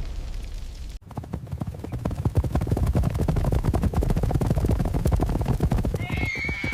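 A low rumble, then from about a second in a dense run of rapid hoofbeats: many hoofed animals galloping in a stampede. Near the end a high, drawn-out animal cry starts over the hooves.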